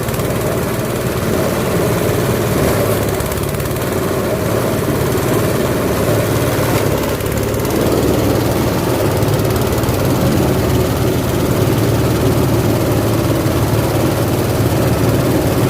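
Cocopeat grinding machine for coconut husk running steadily with a loud, unbroken mechanical drone.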